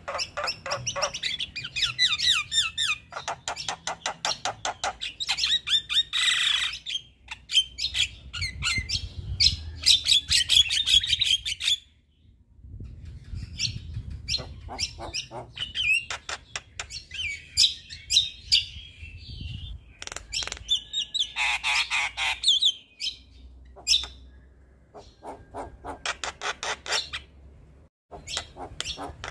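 Male Javan myna (jalak kebo) singing a long, rapid chattering song of harsh clicks and squawks, with short breaks about twelve seconds in and near the end.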